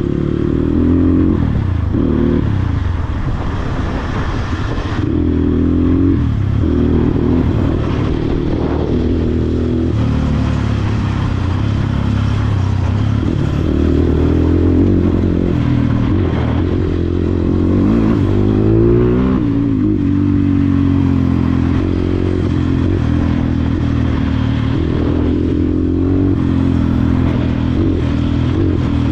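Dirt bike engine running under way, its pitch rising and falling again and again as the throttle opens and closes, with clatter from the bike.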